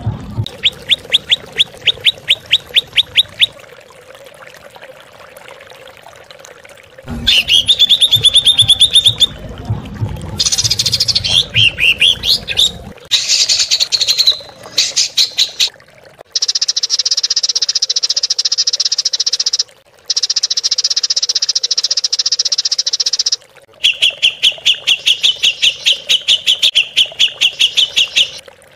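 Songbird masteran recording: fast repeated chattering trills at the start, around a quarter of the way in and near the end, a varied burst of song around the middle, and long high buzzing stretches that cut in and out abruptly. Faint trickling water runs beneath.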